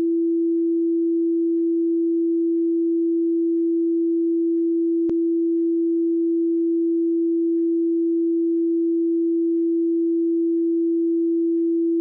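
A steady pure tone at a single, unchanging mid-low pitch, held at a constant level. It is the demonstration sound that sets the animated particles vibrating.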